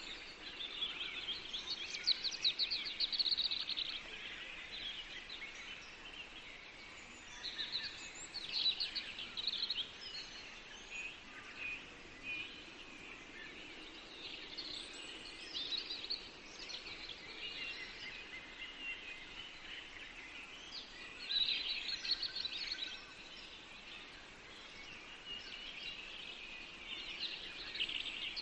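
Several songbirds singing in a forest, with overlapping chirping phrases. The loudest bursts come about two seconds in, near nine seconds, and around twenty-two seconds, over a faint steady background hush.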